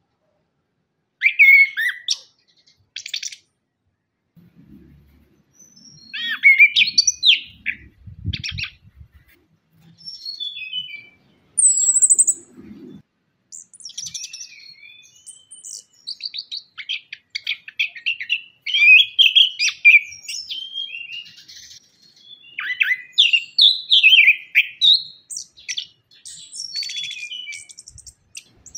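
Chestnut-capped thrush (anis kembang) singing: phrases of rich, varied whistles and fast trills, separated by short pauses and coming almost without break in the second half. Faint low rumbling is heard under the song in the first half.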